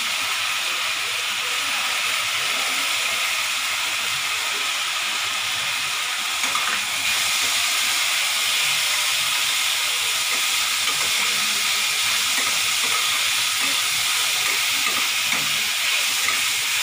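Chopped onion, tomato and soaked urad dal frying in hot oil in an iron kadhai, a steady sizzling hiss that grows a little louder about halfway through, as a metal spatula stirs the mix.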